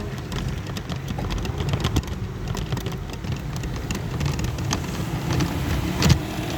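Rain and road traffic heard from a rickshaw: a steady low rumble and hiss of vehicles and wet road, with scattered clicks and knocks, the sharpest about six seconds in.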